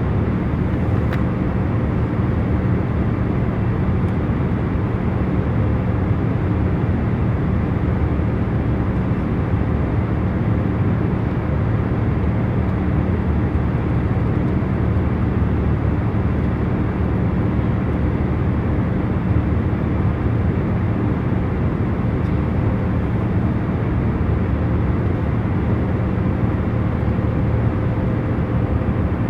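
Jet airliner cabin in cruise: a steady low rush of engine and air noise with a faint constant hum, unchanging throughout.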